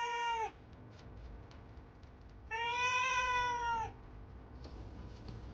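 A cat meowing twice in long, drawn-out, steady meows: the first trails off about half a second in, the second lasts about a second and a half from roughly two and a half seconds in.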